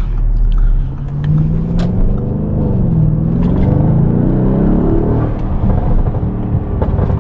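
Audi S7's twin-turbo engine accelerating: its pitch rises, drops briefly about three seconds in, then rises again before levelling off.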